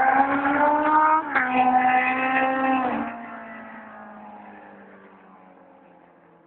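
Yamaha Seca 550's inline four-cylinder engine running with the exhaust silencer removed, accelerating hard and shifting up a gear about a second in. About three seconds in its pitch drops as it passes, and it fades away.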